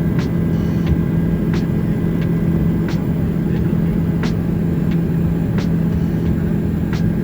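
Helicopter in flight heard from inside the cabin: a loud, steady drone with a constant hum and low rumble, and a faint click about every second and a half.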